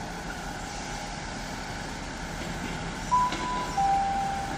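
Steady diesel rumble of a Class 158 unit at the platform. About three seconds in, the station PA sounds a two-note chime, a higher note and then a longer lower one, the attention signal before an announcement.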